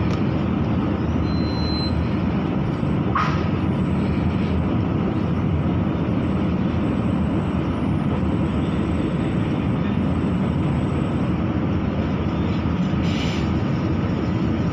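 Steady running rumble of a moving passenger train heard from inside the carriage, with one brief sharp click about three seconds in.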